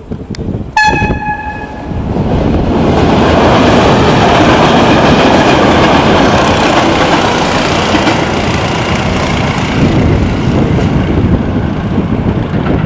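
Diesel locomotive sounding its horn once, a single steady note of about a second. Then the train runs past close by, its engine and wheels on the rails loud and steady as the passenger coaches go by.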